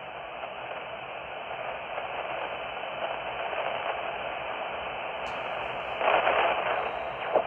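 Amateur radio transceiver hissing with band noise between transmissions, its audio cut off above the voice range. The hiss grows slowly louder, with a louder rush of noise about six seconds in.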